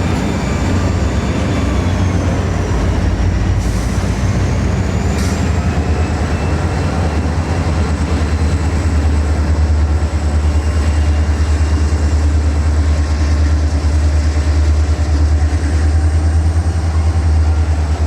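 A train running past with a steady, heavy low rumble, and a faint thin high whine above it.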